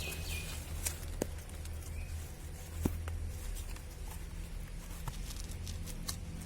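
Quiet garden background with a steady low hum and a few faint clicks and taps, the high tone at the start stopping about half a second in.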